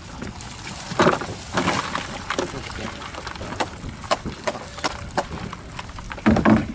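Irregular crackling and rustling of a plastic bag being handled while seafood is packed, with many sharp crackles and two louder bursts, about a second in and near the end.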